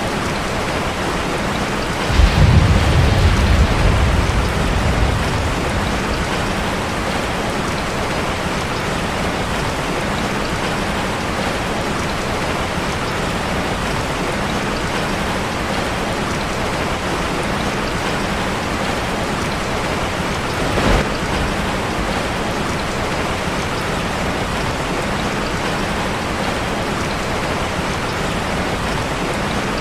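Steady heavy rain drumming on a metal roof. A low roll of thunder comes a couple of seconds in and dies away over about three seconds, and a single short crack is heard around twenty seconds in.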